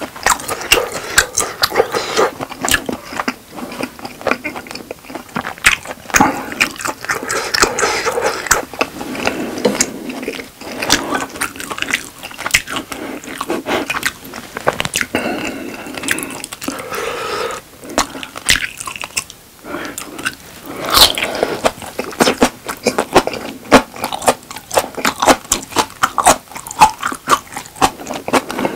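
Close-miked eating sounds: a person chewing and biting into steak, with a dense run of wet mouth clicks and smacks.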